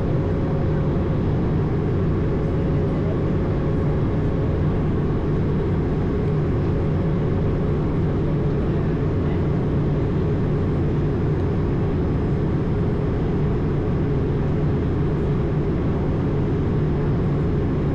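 Airbus A220 in flight heard from inside the aircraft: a steady drone of airflow and engine noise with a low hum, unchanging throughout.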